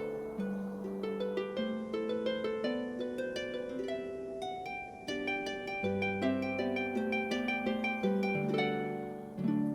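Calm harp music: a lullaby-like melody of plucked harp notes ringing over a low bass note.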